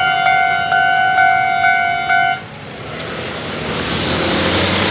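Level-crossing warning bell ringing in steady electronic strokes about twice a second, then cutting off about halfway through. A train's rushing rumble then builds and grows loud near the end.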